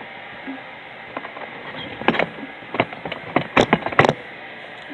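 A few sharp knocks and clatters, starting about two seconds in, as a toy car carrying a teddy bear is crash-tested.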